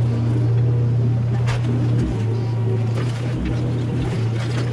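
Mini excavator engine running steadily, with a sharp knock or scrape about a second and a half in and another near three seconds.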